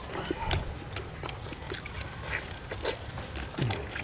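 People chewing and smacking while eating boiled chicken: irregular wet clicks and smacks a few times a second.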